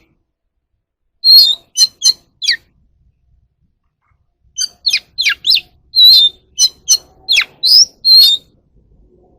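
Oriental magpie-robin singing in loud, short high notes, several sliding steeply down in pitch. It gives a phrase of four notes about a second in, then a longer run of about ten notes from about halfway.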